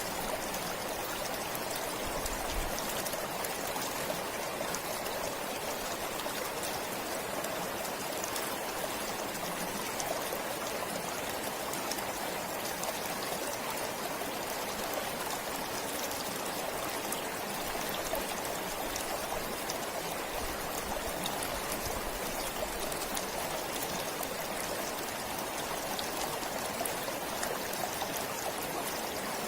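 A forest stream flowing steadily, with an even rush of water and small trickles and splashes.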